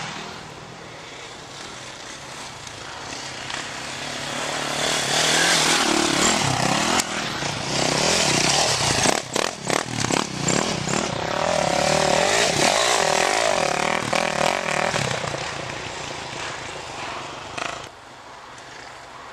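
Off-road racing motorcycles revving through their gears as they pass by: the engine noise grows louder over the first few seconds, stays loud with short breaks in throttle, then fades away near the end.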